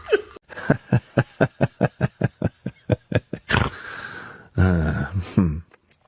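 An animal making a rapid run of short grunts, about five a second, followed by a louder, longer pitched call.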